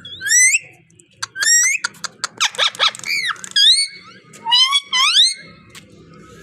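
Pet parrot vocalising: a quick string of short rising whistles mixed with clicks and a burst of chattering, stopping about five and a half seconds in.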